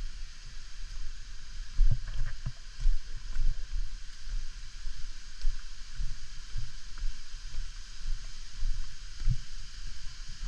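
Waterfall rushing in a steady hiss, with irregular low thumps on the microphone.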